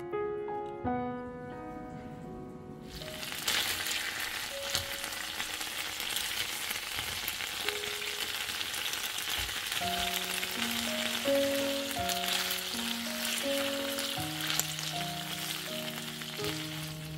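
Chicken thighs frying in a pan, the beer around them sizzling as it cooks away. The sizzling sets in about three seconds in and holds steady.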